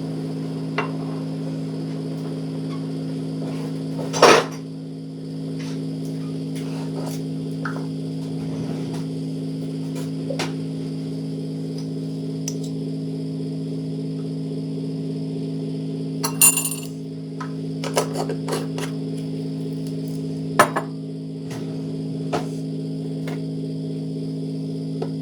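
Dishes and cutlery knocking and clinking now and then over a steady low hum. The loudest knock comes about four seconds in, and a ringing clink about sixteen seconds in.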